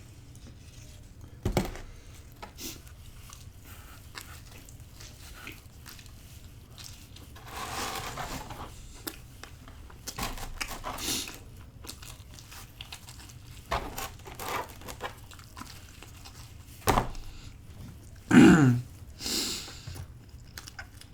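Close-miked eating of a pepperoni and jalapeño pizza slice: scattered bites and chewing with soft crinkling and clicks. A short sound falling in pitch, about three seconds before the end, is the loudest moment.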